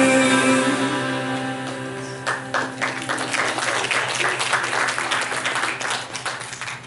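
The band's held final chord rings and fades, then the congregation breaks into applause about two seconds in, the clapping dying down near the end.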